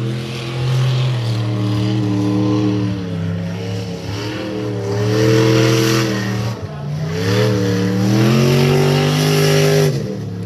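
A rally truck's engine running hard under load, its pitch climbing and then dropping several times as it shifts or lifts off, with a sharp drop in revs near the end.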